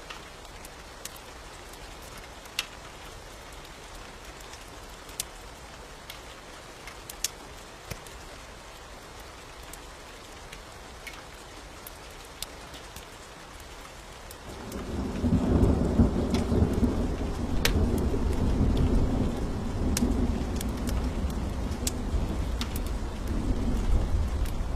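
Steady rain with scattered sharp pops, then a little past halfway a long, loud rumble of thunder rolls in and carries on to the end.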